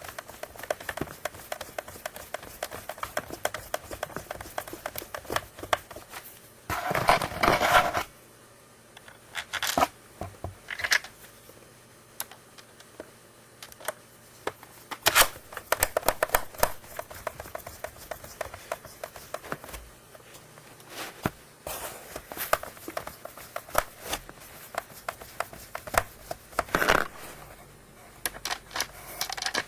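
Hands working on the plastic body and parts of a Panasonic EW1250P water flosser during repair: irregular small clicks, taps and scrapes. A longer noisy scrape about seven seconds in, and a shorter one near the end.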